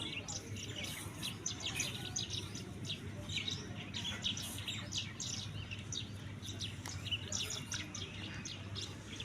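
Birds chirping rapidly, with many short high chirps overlapping throughout, over a low steady hum.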